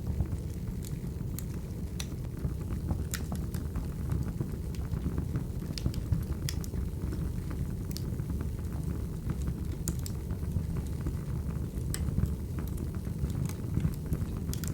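Crackling wood fire: a steady low rumble of flames with irregular sharp pops and snaps from the burning logs.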